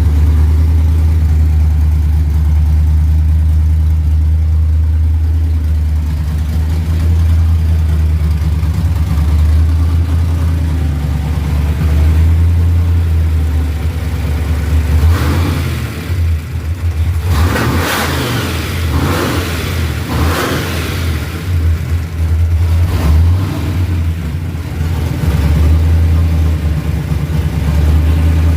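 Supercharged 396 big-block V8 of a 1967 Chevelle SS idling with a heavy, steady rumble as it warms up. About halfway through it is revved several times in quick succession before settling back to idle.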